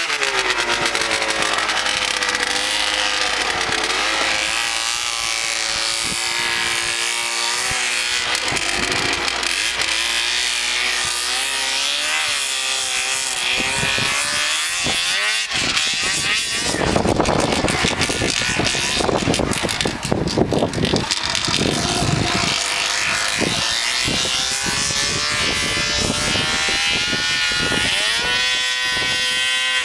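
1979 Ski-Doo Blizzard 5500 snowmobile's two-stroke engine running under way, its pitch rising and falling with the throttle. A louder, rougher stretch comes in the middle, and the engine revs up near the end.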